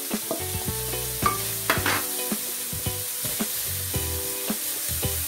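Diced potatoes and onions sizzling as they fry in oil in a stainless steel pan, with a wooden spatula repeatedly scraping and knocking as it stirs them.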